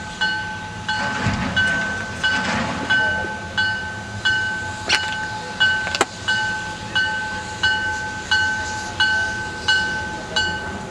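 Railroad grade-crossing bell ringing steadily, about three strikes every two seconds, the same pitch each time, over the rumble of a train. Two sharp clanks come about five and six seconds in.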